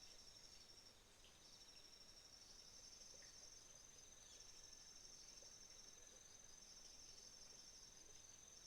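A faint, steady chorus of autumn insects, crickets trilling in rapid pulses at two high pitches that overlap and drop in and out.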